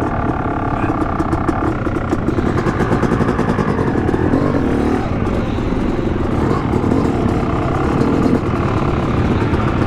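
Yamaha YZ250X two-stroke dirt bike engine running as the bike rides along the trail, heard through a mic inside the rider's helmet.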